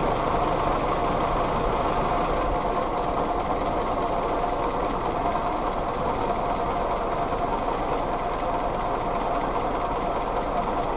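Willys L134 Go Devil four-cylinder flathead engine idling steadily with a smooth purr.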